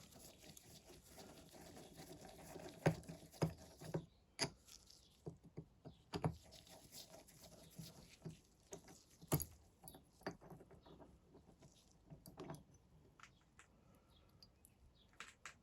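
Scattered light clicks and taps at an uneven pace, a few sharper knocks among them: small parts of a motorcycle fuel petcock being handled as it is taken apart and checked for a leaking seal.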